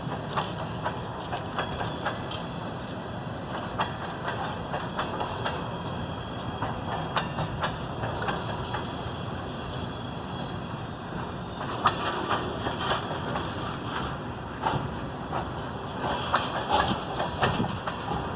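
Loaded salt train's freight cars rolling past: a steady rumble broken by many sharp, irregular wheel clicks.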